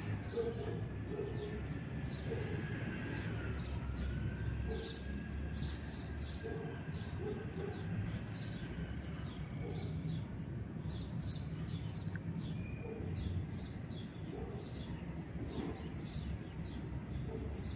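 Small birds chirping, short high chirps repeating irregularly about twice a second, over a steady low background rumble.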